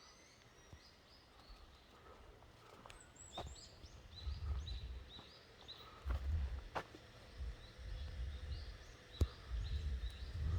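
Wild birds singing in runs of short, high chirps. Low rumbling noise comes in gusts from about four seconds in, with a few sharp clicks.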